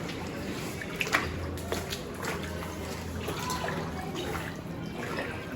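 Floodwater splashing and trickling in irregular small splashes, as of people wading through deep water.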